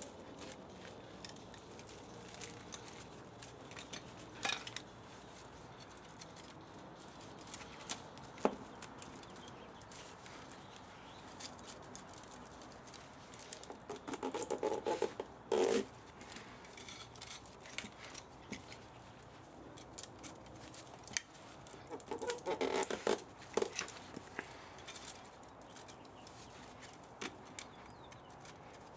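Hand tools working on a scrap spa motor: scattered clicks and taps, with two short runs of rapid clicking and scraping, one near the middle and one about three-quarters of the way through.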